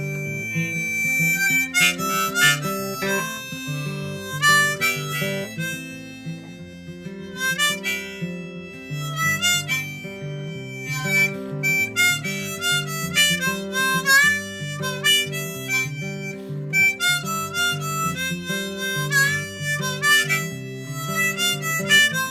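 Instrumental break of a folk-country song: a harmonica plays a wandering melody over a repeating guitar chord accompaniment.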